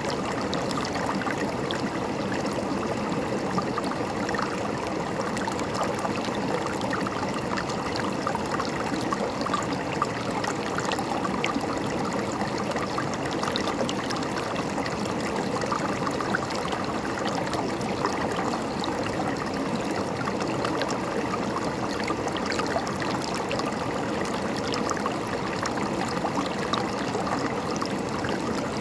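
River water flowing and gurgling over stones, a steady rush with small splashes.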